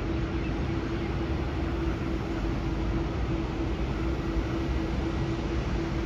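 Steady airport background rumble and hiss with a constant low hum, unchanging throughout.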